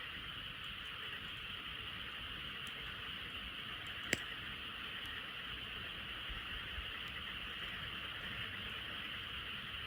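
A chorus of many frogs calling in a steady, unbroken din. A single sharp pop from the crackling campfire comes about four seconds in.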